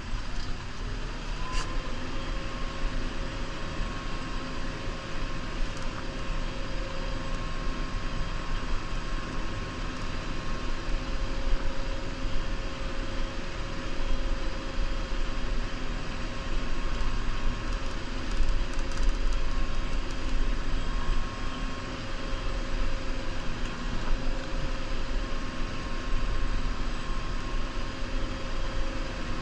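Diesel engine of a New Holland Powerstar 75 tractor running steadily at working speed, with a steady whine over the low engine rumble that comes in about two seconds in.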